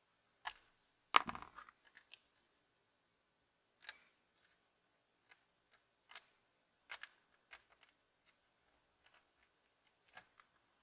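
Scattered small clicks and taps of small hard objects being handled. The loudest is a sharp knock about a second in with a brief rattle after it, followed by about a dozen lighter, irregular clicks.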